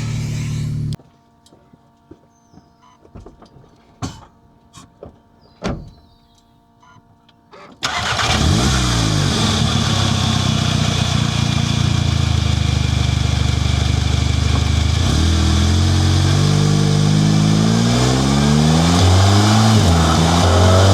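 Volkswagen Golf GTI Mk7's turbocharged four-cylinder engine, fitted with a 4.5-inch downpipe, heard from a mic in the engine bay. The sound cuts off suddenly about a second in, leaving a few clicks and knocks in the quiet. About eight seconds in the engine starts and runs loudly, its pitch rising and falling several times near the end as it is revved and driven.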